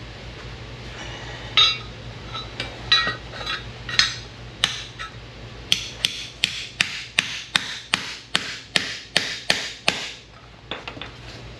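A hammer striking sheet metal, with ringing blows. A few scattered strikes come first, then an even run of about three blows a second that stops about ten seconds in. A steady low hum sits underneath.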